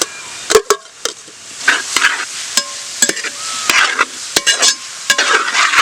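Freshly added chopped onions and green chillies sizzling in hot coconut oil as they are stirred in the pan, with repeated sharp knocks and scrapes of the spatula against the pan.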